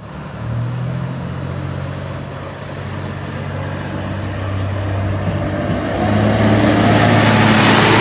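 Diesel railcar's engine running under throttle as the train pulls away, a steady low hum that grows louder and rises in pitch about six seconds in.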